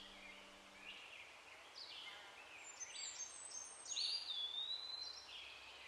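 Wild birds singing: short high chirping phrases repeating, and about four seconds in a long clear whistle that dips and then holds steady, over a faint background hiss.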